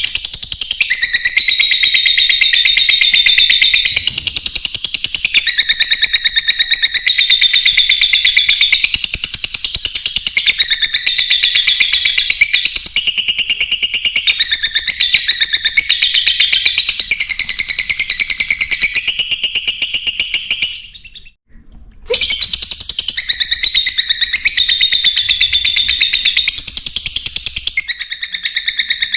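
Lovebirds chattering in a rapid, continuous stream of high chirps, broken by a brief pause about three-quarters of the way through.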